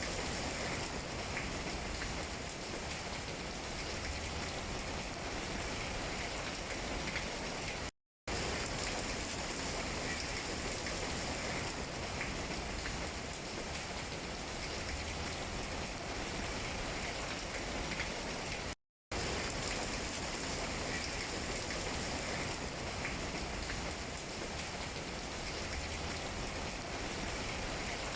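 Steady rain pattering on tree leaves, cutting out to silence for a split second twice.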